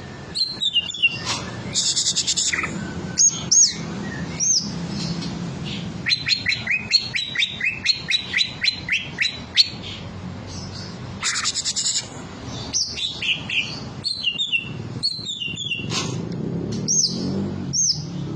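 Green leafbird (cucak ijo) singing continuously in a varied, mimicking run of phrases. The phrases include quick series of repeated whistled notes, arched whistles and short harsh buzzy bursts.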